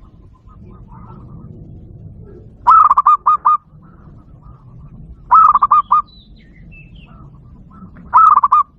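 Zebra dove call played through a Bluetooth speaker: three loud bursts of rapid, repeated cooing notes, about two and a half seconds apart. Fainter chirps from other birds come between the bursts.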